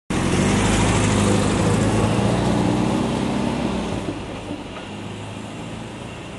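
A vehicle engine running, a low hum with road noise, starting abruptly and fading gradually.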